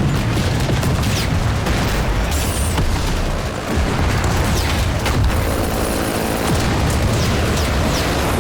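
Combat sound effects: a loud, continuous low rumble with booms, like explosions and heavy aircraft noise.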